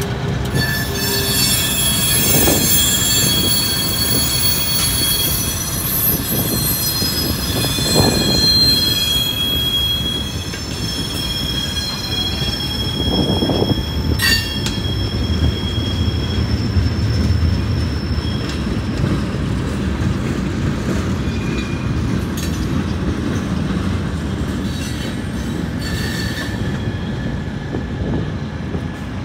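Freight cars (covered hoppers and gondolas) rolling past, wheels squealing high and shrill through the first half before the squeal fades. Under it is a steady rolling rumble with a few low thuds.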